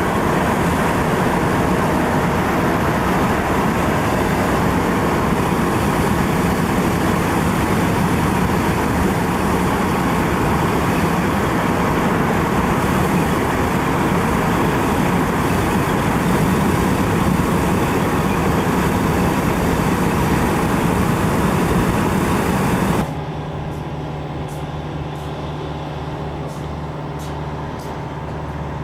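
Steady road noise of a moving vehicle. About 23 seconds in, it drops abruptly to a quieter, steady hum.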